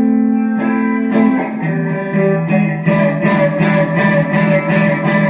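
Guitar music: held chords ringing at first, then quick, even strumming at about four strokes a second from about a second and a half in.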